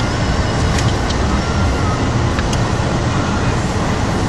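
Steady road and engine rumble inside a moving car, with a few faint clicks.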